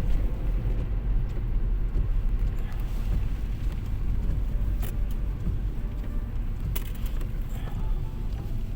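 Steady low rumble of a moving car heard from inside the cabin, tyre and engine noise with no change in pace. A couple of faint clicks about five and seven seconds in.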